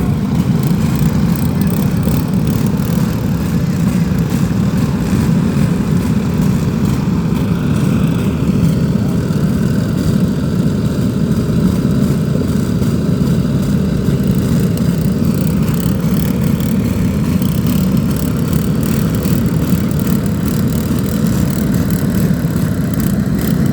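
Lawn mower engines running steadily and loudly.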